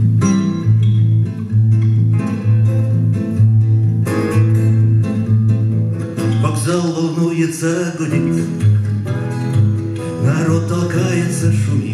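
Acoustic guitar playing the introduction of a bard song, with a steady repeating bass-note pattern under the chords; a singing voice comes in around the second half.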